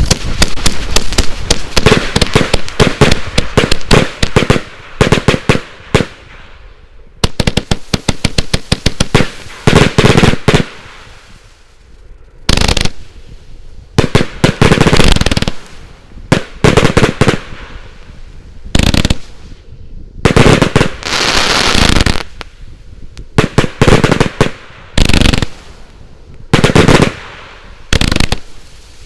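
A consumer firework battery (I-Like-Legal Armageddon, a 281-shot compound cake) firing. Dense, rapid strings of shots run for about the first ten seconds, followed by shorter volleys of shots with brief gaps between them.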